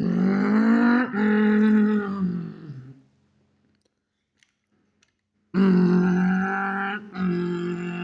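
A person's voice making machine noises for toy construction vehicles: two long, held, low vocal drones, each a few seconds long with a short break in the middle, separated by about two seconds of quiet.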